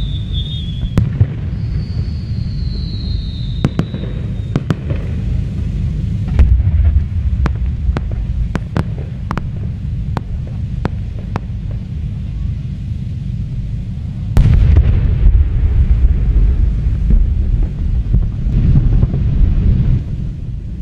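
Fireworks display: a whistling shell gives a slightly falling whistle near the start, then a run of sharp bangs, over deep rumbling booms that grow heavier about two-thirds of the way in.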